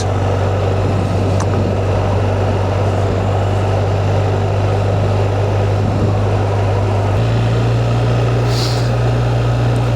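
Motorcycle engine running at a steady cruise under a constant rush of wind noise; the engine note steps up slightly about seven seconds in.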